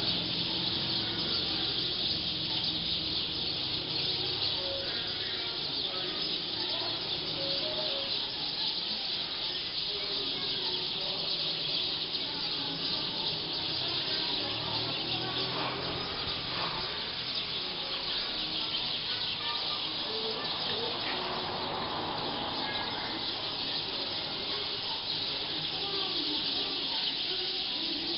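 A large flock of black birds calling all at once in a dense, steady, high-pitched din as they settle in a tree to roost.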